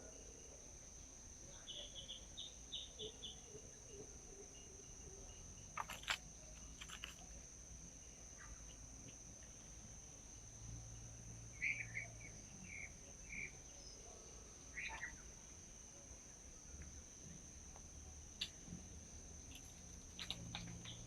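Faint outdoor ambience of small birds giving short bursts of chirps, over a steady high-pitched insect drone, with a few sharp clicks.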